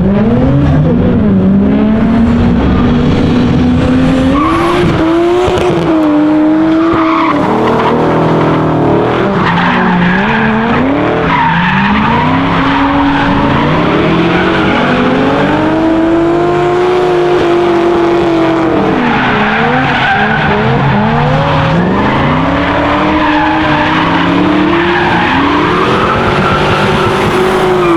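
Drift cars running a tandem: engines revving up and dropping back over and over as they are thrown through the corners, with tyres screeching under a steady hiss.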